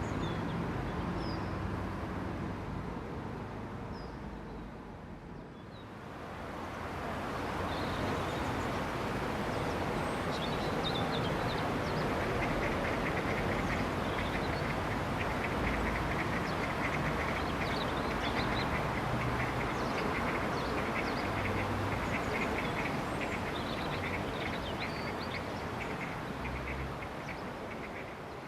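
Mallard ducks quacking, with a run of quick, rapid calls from about halfway on, over a steady rushing noise that dips briefly a few seconds in.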